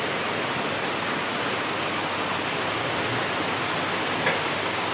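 Heavy rain falling steadily, an even hiss with no break, and one faint click near the end.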